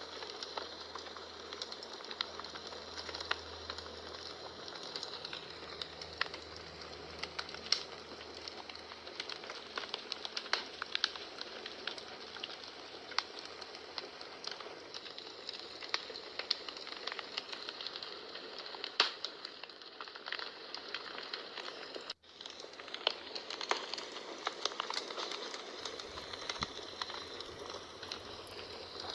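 Wood fire burning in a fireplace: steady crackling with irregular sharp pops over a soft hiss. The sound cuts out for an instant about three-quarters of the way through.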